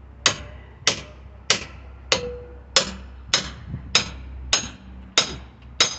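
Small sledgehammer hammering a steel pry bar into a wood pallet: about ten ringing metal-on-metal blows, evenly spaced at a bit under two a second.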